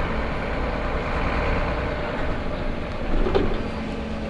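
Van Hool A320 city bus heard from inside the cabin: a steady rumble from the engine and road, with a continuous hum and a brief knock about three seconds in.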